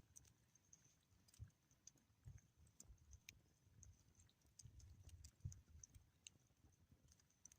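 Near silence with faint, irregular small clicks and low rumbles.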